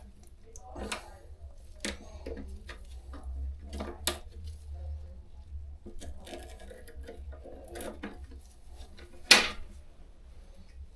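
Metal tools and fittings clinking and knocking in a shower drain during drain cleaning, irregular, with one louder knock near the end and a low steady hum underneath.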